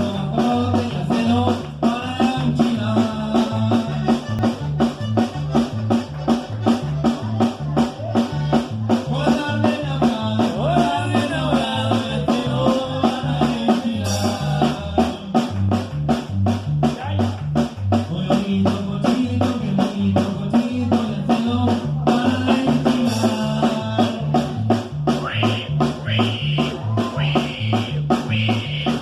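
Norteño band music: an accordion-led melody over a bass alternating between two notes and drums keeping a quick, even two-step beat.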